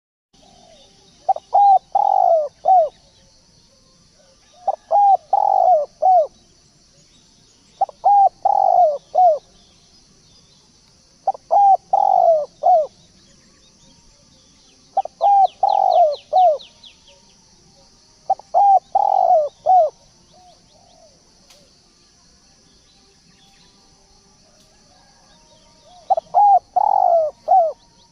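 Spotted dove (tekukur) cooing, a short phrase of four or five notes repeated seven times at a steady pace, with a longer pause before the last phrase. This is a lure call meant to draw wild doves in.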